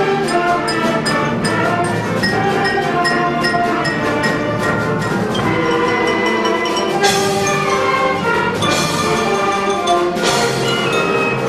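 School concert band playing: wind and brass instruments holding chords, with percussion strokes throughout.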